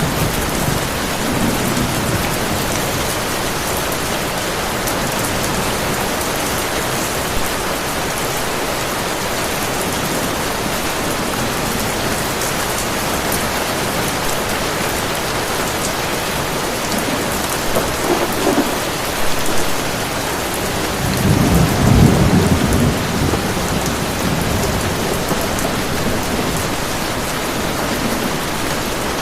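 Heavy rain falling steadily, with thunder rumbling low in the background, a short rumble a little past halfway and a longer, louder one about three-quarters of the way through.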